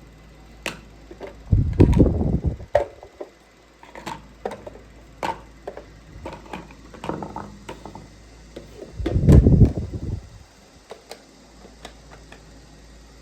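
Handling noise from a plastic toy microwave oven: scattered sharp clicks and knocks, with two louder low thuds lasting about a second each, one about two seconds in and one about nine seconds in.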